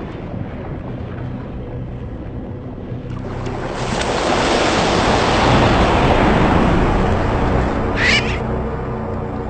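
Rushing water swells up about three seconds in, peaks and slowly fades, like surf or a big splash at the sea's surface, over a steady music score. A brief high-pitched sound cuts in near the end.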